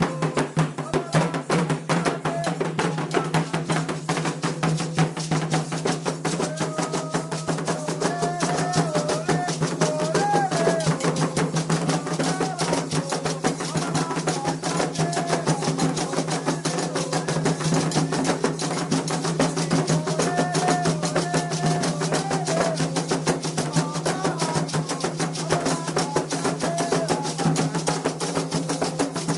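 Candomblé ritual drumming, a fast steady beat of hand drums with rattling percussion, under voices singing a chant to Xangô.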